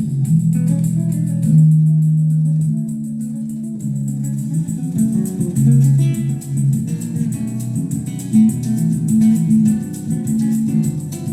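Recorded music with a prominent bass line and guitar, played back through a Yamaha A-30D stereo amplifier and loudspeakers with the equalizer set flat.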